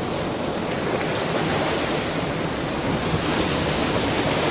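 Ocean surf washing onto a shore in a steady rush of breaking waves, swelling slightly near the end.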